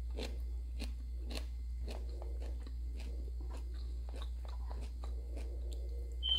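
Close-up chewing and crunching of food, about two chews a second. A short high squeak comes right at the end.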